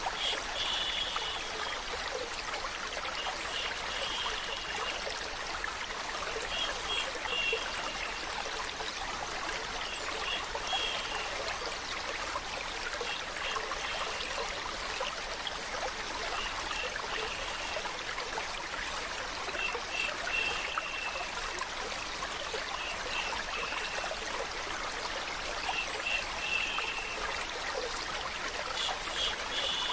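Steady flowing, trickling water, with short high-pitched sounds recurring about every three seconds.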